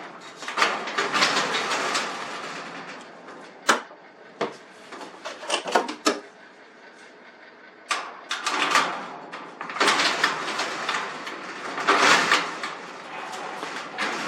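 A sectional garage door is moved by hand along its metal tracks while a roller is swapped, with the rollers and panels rattling and rumbling in runs and several sharp metal knocks in between.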